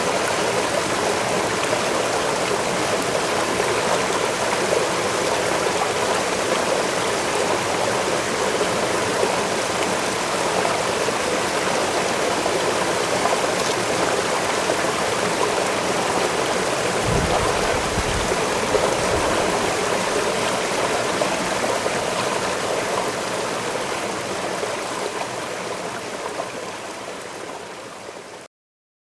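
Waterfall rushing steadily, with a brief low rumble about two-thirds of the way through; the sound fades out to silence near the end.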